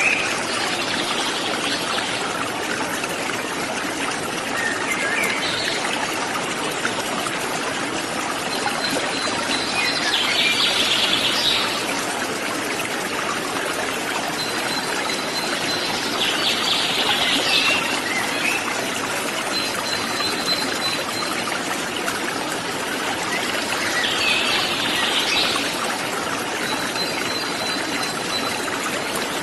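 Water running steadily over a small waterfall, with birds calling over it: three short bursts of bright chirping several seconds apart, and thin, held high whistled notes in between.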